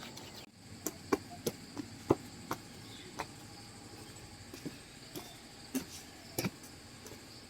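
Faint steady chirring of insects, crickets, with a dozen irregular sharp clicks and knocks scattered through it.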